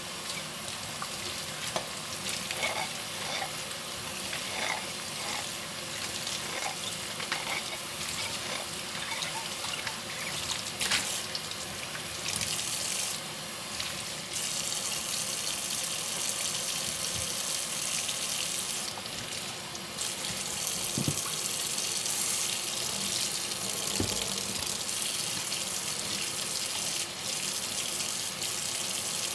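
Kitchen tap running into a sink during hand dishwashing, with small clinks and knocks of dishes in the first half; the flow gets stronger about halfway through.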